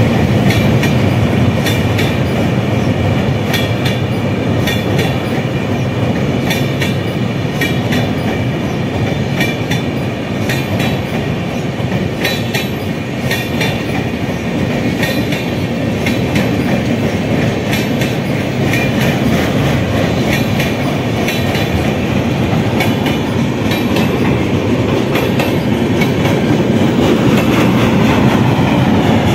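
Indian Railways passenger train coaches rolling past with a steady, loud rumble and the rhythmic clickety-clack of wheels over rail joints.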